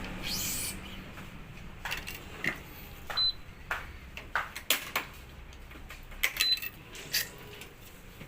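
Electric badminton stringing machine at work on BG66 Brilliant string: a rising zip of string pulled through near the start, then a series of sharp clicks and knocks from the clamps and tensioner, with three short high beeps from the electronic tensioner as it reaches tension.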